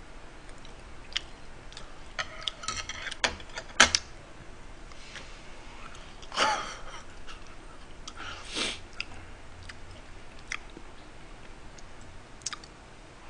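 Close-miked chewing of a mouthful of food: scattered wet mouth smacks and clicks, with a few louder ones about three to four seconds in and again around six and nine seconds.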